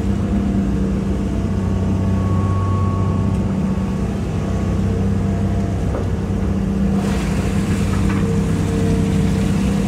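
Hitachi EX200-5 excavator's Isuzu six-cylinder diesel engine running steadily under load as the machine works in a pond, with a faint thin whine about two seconds in and more hiss joining about seven seconds in.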